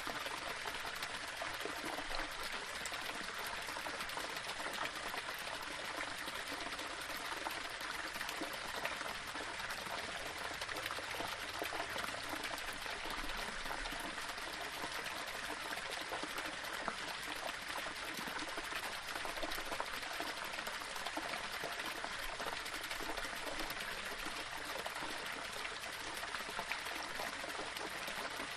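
Small waterfall: water splashing and trickling over rocks in a steady, continuous rush.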